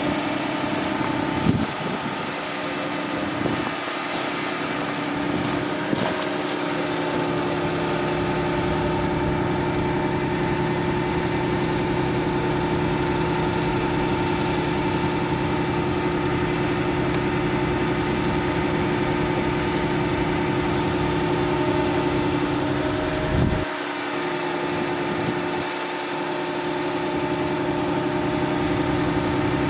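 Bucket truck running steadily, a constant machine hum with a steady higher tone over it. There is a brief knock about a second and a half in and another about three-quarters of the way through.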